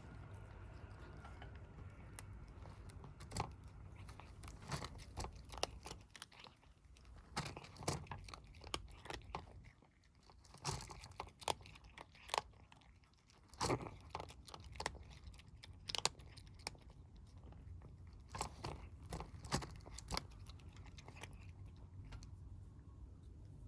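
Kittens eating, with irregular crunching and chewing of food at close range.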